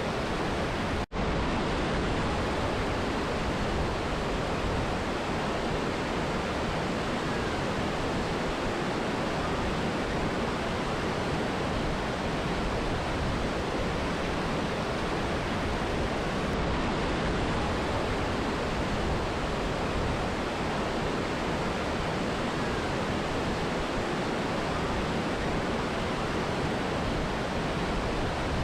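Steady rush of a mountain river and waterfall, an even wash of falling water with no change in level. It cuts out for an instant about a second in, then carries on.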